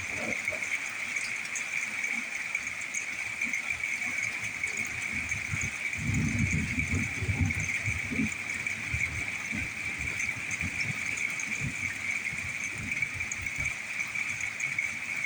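Thunderstorm ambience: a steady high-pitched drone throughout, with low rumbling that swells about six seconds in and dies back over a couple of seconds, like distant thunder rolling.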